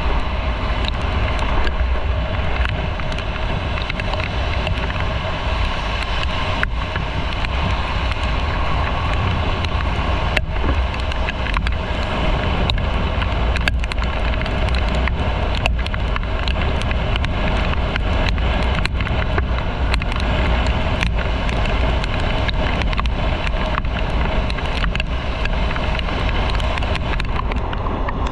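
Motorcycle riding at a steady speed: the engine runs evenly under a constant rush of wind on the microphone, with scattered faint ticks.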